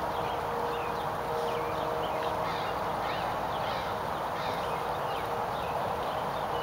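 Small birds chirping repeatedly over a steady outdoor background hiss.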